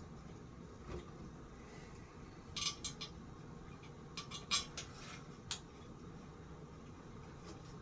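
Light metallic clicks and clinks of small metal parts and hand tools being handled, in a few short clusters.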